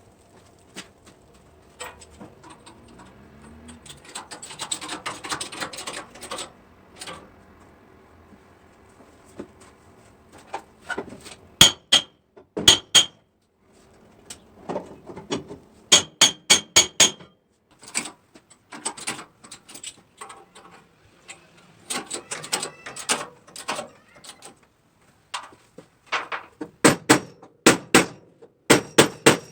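Hammer blows on a car's sheet-metal body panels during body repair. They come in groups of several quick strikes, some leaving a brief metallic ring, with a denser patch of rapid tapping early on and quiet gaps between the groups.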